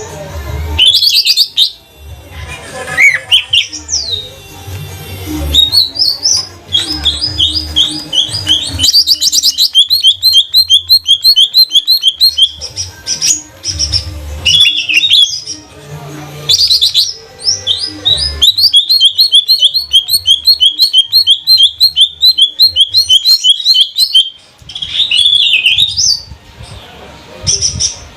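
Cucak ijo (greater green leafbird) singing loudly in long runs of fast, evenly repeated notes, broken by shorter varied phrases and glides.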